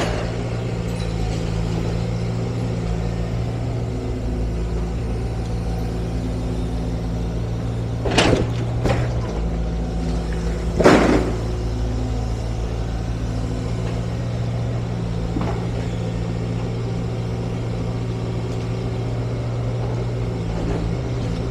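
Heavy demolition machine's diesel engine running steadily, with sharp crashes of the building being broken down: two close together about eight seconds in and a louder one about three seconds later.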